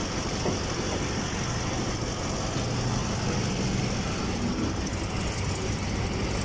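Chevrolet Caprice LS 6.0-litre V8 idling steadily and smoothly, just after its timing chain and broken timing chain guide were replaced.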